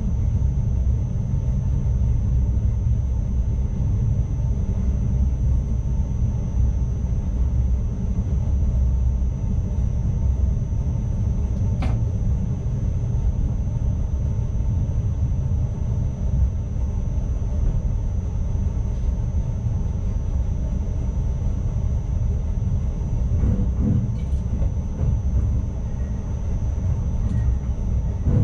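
Steady low rumble of an NS ICMm electric multiple unit running along the track, heard from inside the driver's cab, with a faint steady high whine over it. A single sharp click about twelve seconds in.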